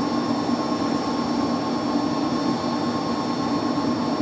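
Steady drone of running machinery in a heating plant room: a low hum with an even rushing noise over it, unchanging throughout.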